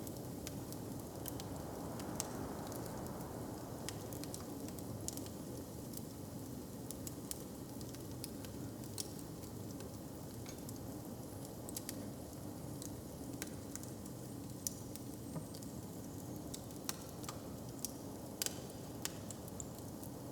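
Wood fire crackling, with irregular sharp pops and snaps, a few louder ones near the end, over a steady low rumble.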